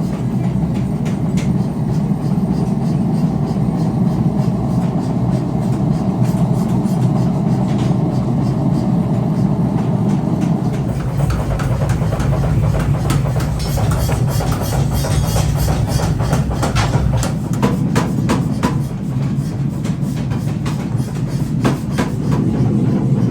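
Factory machinery running with a steady low rumble. From about halfway in, a dense run of sharp metallic clanks and strikes joins it.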